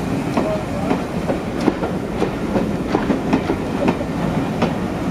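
Railway carriage rolling along the track, its wheels clicking over rail joints at about two clicks a second over a steady running rumble.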